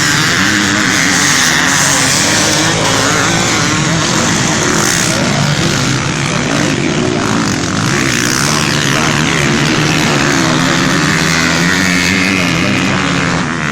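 Motocross bikes racing, several engines revving up and down as they accelerate and shift through the gears.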